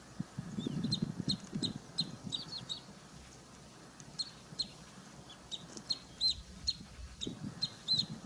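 Birds calling: clusters of quick, short high chirps, with low short calls beneath that are strongest in the first two seconds and again near the end.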